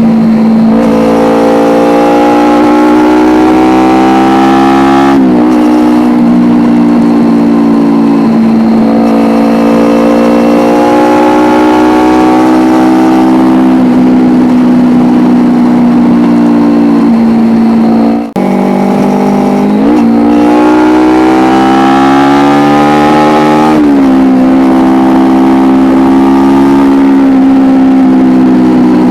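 Kawasaki Ninja 250R's parallel-twin engine through an Akrapovic exhaust, heard onboard while riding. The note climbs steadily under throttle and drops sharply at gear changes about five seconds in and again near the end, with a brief dip and fresh climb about two-thirds of the way through.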